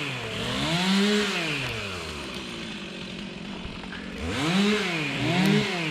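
Chainsaw engine revving up and dropping back: one rise and fall about a second in, a low steady run through the middle, then two more quick revs near the end.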